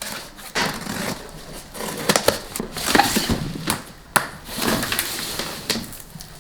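Packaging rustling and crinkling, with several sharp clicks and knocks as kit parts are handled during unboxing.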